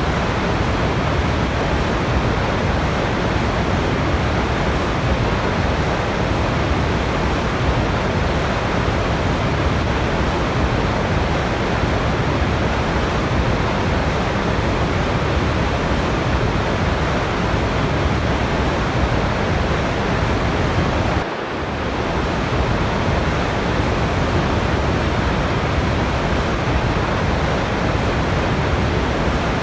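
Steady, even rushing of a waterfall's falling water, used as white noise, with a brief dip in level about 21 seconds in.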